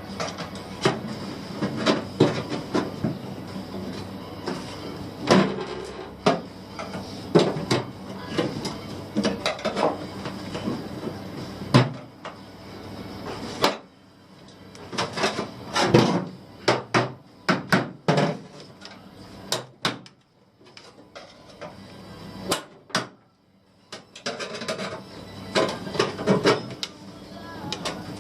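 Irregular knocks and clanks of tools and metal parts being handled, over a steady background hum that drops away about halfway through.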